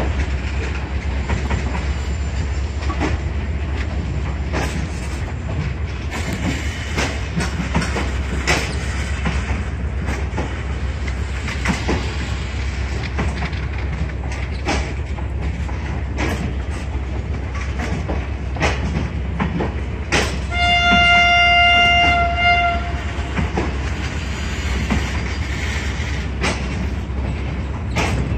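Passenger train coaches rolling past with a steady rumble, their wheels clacking over rail joints at uneven intervals. About two-thirds of the way through, a train horn sounds one steady note for about two seconds.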